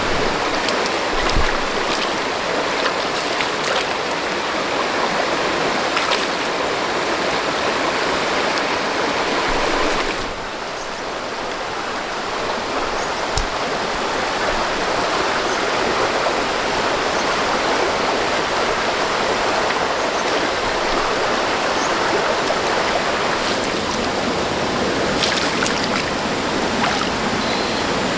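Steady rushing of flowing water, with a few faint clicks, and a brief drop in level about ten seconds in.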